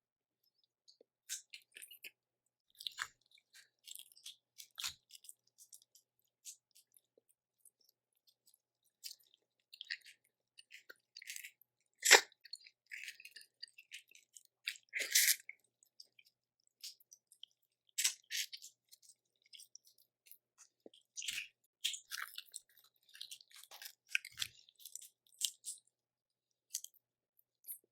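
Close-up eating of boiled seafood: shells of crab or crawfish cracking and snapping, with wet chewing between. Irregular small clicks throughout, with a sharp loud crack about twelve seconds in and another strong one about three seconds later.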